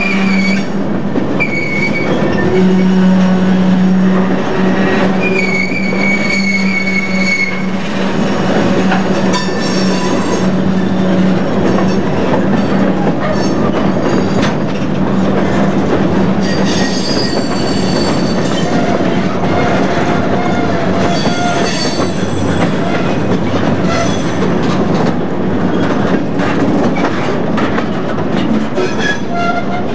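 Empty covered cement hopper cars rolling past, the wheels rumbling and clicking over the rail. Their flanges squeal in several short high-pitched stretches, a few in the first eight seconds and more in the middle.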